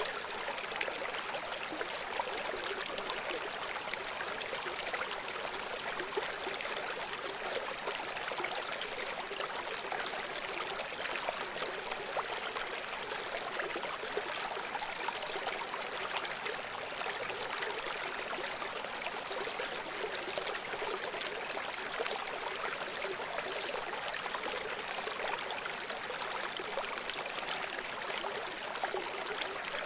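Running stream: water flowing and splashing steadily over rocks, an unbroken hiss with fine trickling detail.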